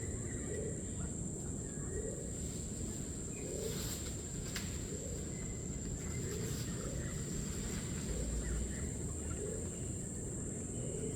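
Outdoor wildlife ambience: a steady high insect drone over a low, constant rush, with a short low call repeating about once a second and a few faint higher chirps.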